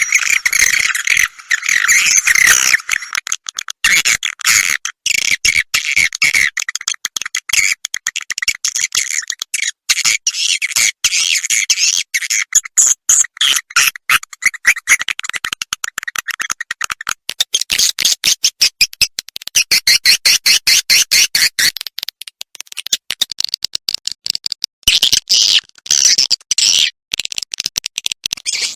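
Recorded swiftlet calls of the kind played as a roosting lure in swiftlet houses: a dense run of rapid, high twittering chirps and clicks. The calls thin out to sparser clicks for a few seconds past the middle, then fill in again.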